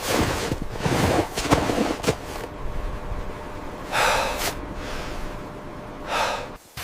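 A person breathing hard in ragged gasps, with two loud drawn breaths about four and six seconds in.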